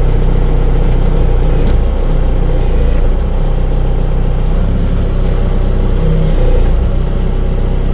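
Big diesel engine running loud and steady in gear as the machine is manoeuvred, its note shifting slightly a few times.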